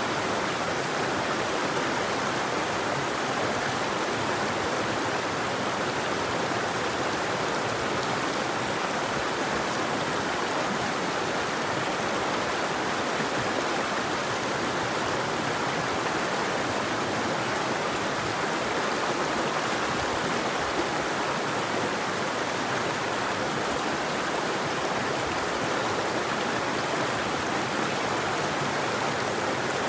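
A river flowing, a steady, even rush of water with no birdsong.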